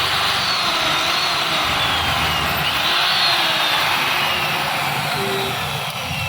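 Electric marble cutter running loudly. Its motor whine rises sharply and then sags slowly, over and over every second or two.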